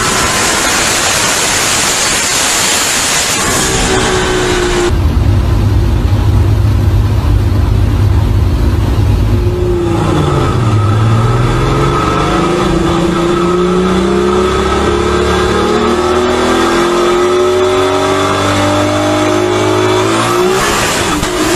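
Twin-engine, twin-turbo VR12 VW Golf Mk3 heard from inside the cabin under hard acceleration. A loud rush of wind and road noise comes first, then a deep rumble. About ten seconds in, the engine note dips and then rises steadily for about ten seconds, with a gear change near the end.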